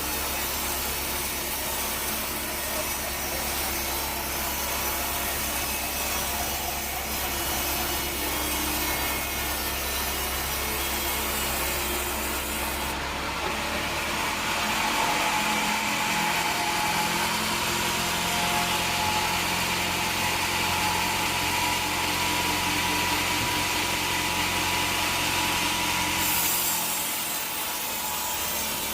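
Bandsaw sawmill running steadily. About halfway through the sound turns brighter and hissier, with a steady high whine, as the blade cuts through a teak log, and it drops back near the end.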